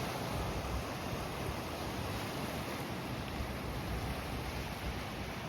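Steady beach ambience: an even wash of surf and wind noise with no distinct events.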